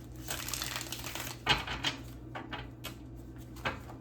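Tarot cards being shuffled and handled: a soft rustle in the first second or so, then a string of separate sharp card clicks and taps at irregular spacing.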